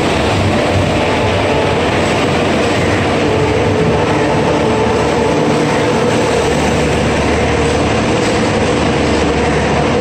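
Humsafar Express passenger coaches rolling past alongside the platform as the train pulls in: a steady rumble of wheels on rail with a steady hum over it.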